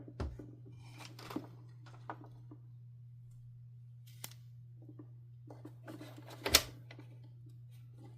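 Scattered light clicks and knocks of hard plastic vacuum-cleaner parts being handled during disassembly, with one louder clack about six and a half seconds in, over a steady low hum.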